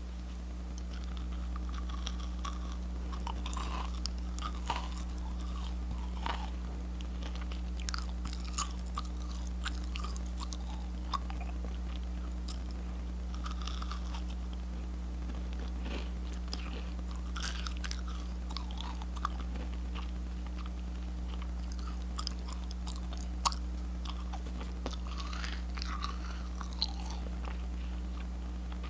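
Macaron shells being bitten into and chewed: irregular small crunches and crackles, over a steady low hum.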